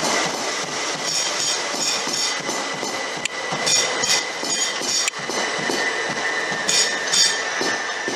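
Passenger train moving through the station: steady wheel-on-rail noise with a few sharp clicks, and a steady high tone that comes in near the end.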